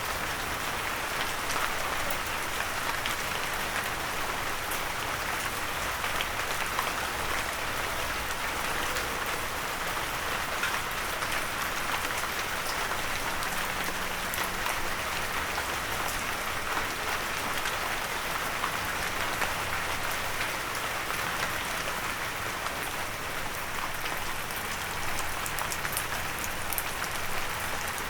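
Steady rain hitting a windowsill: an even hiss of falling rain with scattered sharper drop hits.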